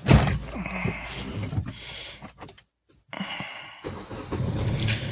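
Car sounds: a loud knock like a door shutting at the start, some handling noise, then after a brief break the engine running steadily with a low hum.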